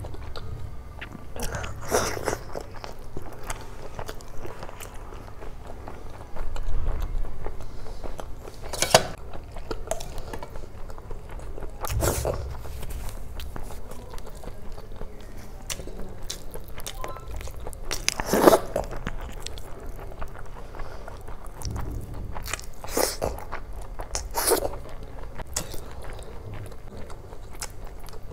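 Close-miked eating of chicken curry, boiled egg and rice: chewing and biting, with sharp mouth clicks and smacks every few seconds.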